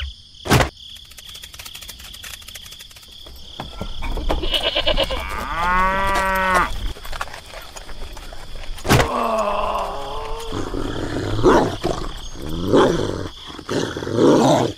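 A cow mooing, one long call about six seconds in, followed by more farm-animal calls over a steady high background hum.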